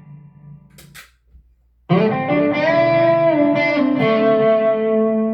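Electric guitar with humbucker pickups played through a Peavey Vypyr X2 40-watt modeling amp. A chord rings out and fades to near silence. About two seconds in, a new chord is struck and its notes are held and bent, still ringing at the end.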